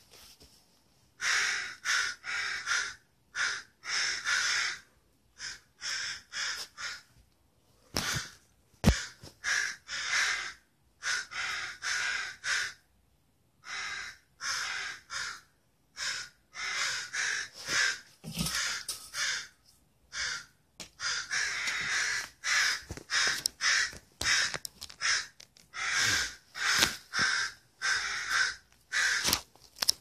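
A loud racket of bird calls just before sunrise: short, harsh, grating calls following one another in quick runs, with a brief lull about halfway through.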